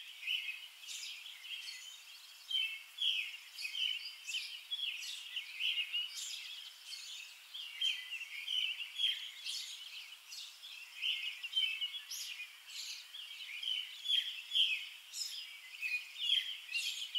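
Birds chirping: a busy, continuous run of short, high calls overlapping one another.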